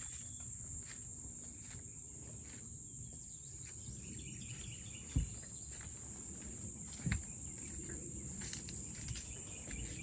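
A steady, unbroken high-pitched insect chorus, with a low rumble underneath. Two dull thumps stand out, about halfway through and again two seconds later.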